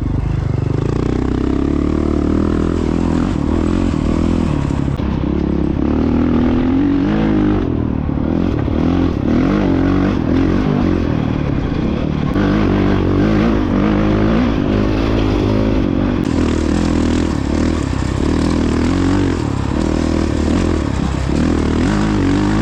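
Honda CRF450X dirt bike's single-cylinder four-stroke engine running under way, revving up and down as the rider works the throttle along the trail.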